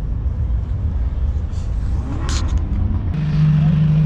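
Car engine and exhaust running with a low, steady rumble. About three seconds in, a louder, higher steady engine note cuts in abruptly.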